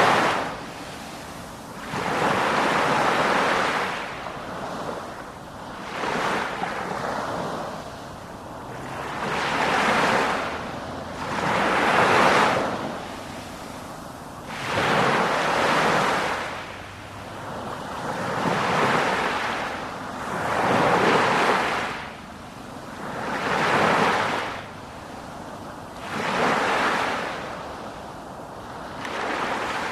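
Sea waves breaking and washing in, each surge swelling and fading about every three seconds.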